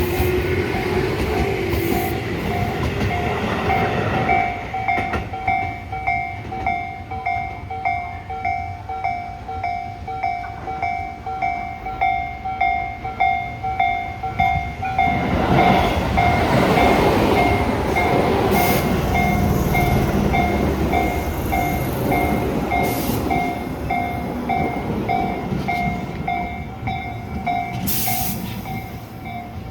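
Tobu electric commuter train running through the station, its rumble swelling about fifteen seconds in as it passes close. A level-crossing warning bell dings steadily throughout and stops near the end.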